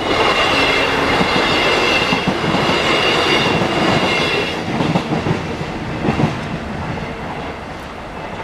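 A passenger train passing over a level crossing at close range. It starts loud and suddenly, with a steady high whine over the noise of the train for about four and a half seconds. It then fades away, with a few wheel clacks over the rail joints partway through the fade.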